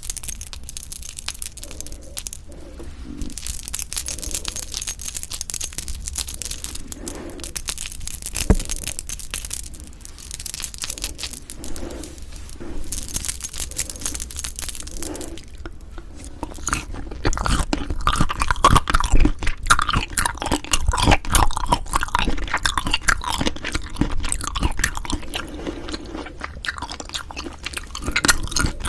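Close-miked chewing and crunching of food in the mouth, an ASMR eating sound, growing louder and denser a little past halfway.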